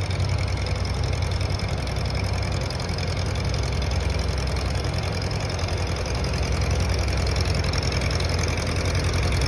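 Tractor engine running steadily at low revs with a fast even chug, getting a little louder toward the end.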